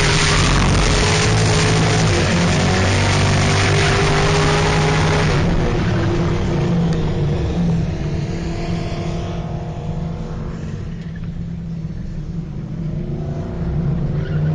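Drift car engine revving hard under a loud rushing noise for about five seconds. It then drops to a quieter running with the pitch sliding up and down, and revs up again near the end.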